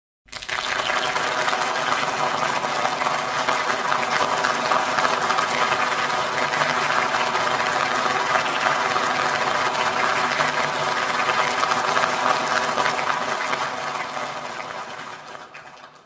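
Crowd applause: many people clapping together in a dense, steady patter that fades out over the last couple of seconds.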